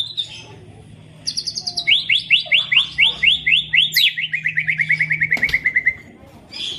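White-rumped shama (murai batu) singing: a brief high phrase, then a long rapid run of repeated chirping notes that quickens and slides down in pitch before stopping near the end.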